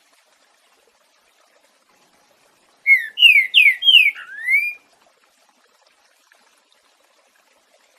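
Green-winged saltator (trinca-ferro) singing one phrase of its 'boiadeiro' song type: about two seconds of five loud, clear slurred whistles, the last one rising, starting about three seconds in.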